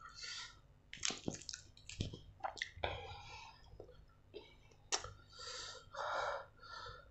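Wet chewing and lip smacking from someone eating grilled chicken, with squishing as the meat is torn apart by hand. The sound is a string of irregular clicks and smacks.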